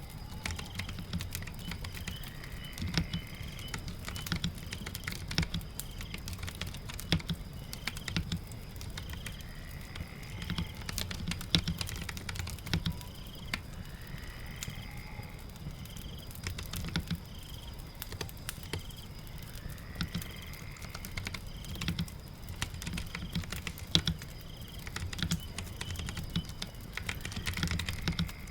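Typing: irregular, quick key clicks, over a steady patter of rain.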